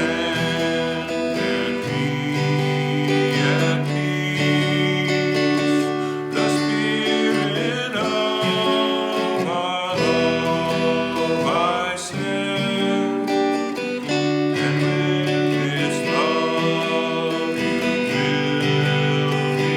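Music led by acoustic guitar, with held chords changing every couple of seconds.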